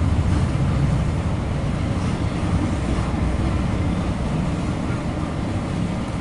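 CSX double-stack intermodal freight train rolling slowly past: a steady low rumble.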